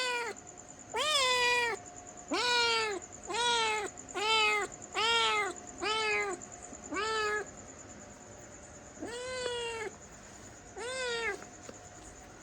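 Domestic cat meowing repeatedly: about ten short meows, each rising then falling in pitch, coming roughly once a second with a short pause after the eighth. A faint steady whine runs underneath.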